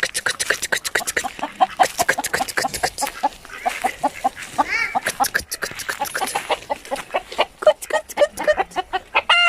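A flock of chickens clucking in a dense, rapid, irregular chatter, with a couple of higher squawking calls, one about halfway through and one near the end.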